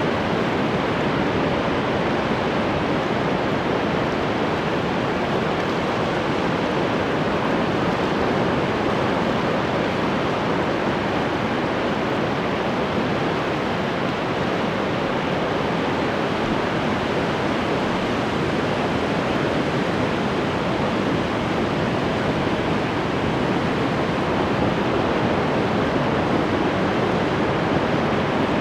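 Ocean surf washing onto a shore: a steady, even rush of breaking waves with no distinct crashes.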